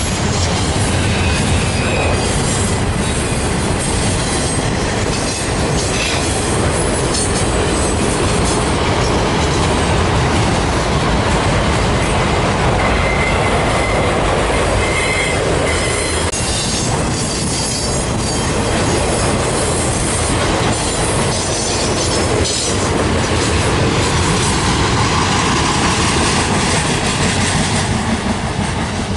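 Freight cars of a CN train rolling past: a steady rumble and rattle of steel wheels on the rail, with scattered clacks and a faint, brief wheel squeal about halfway through.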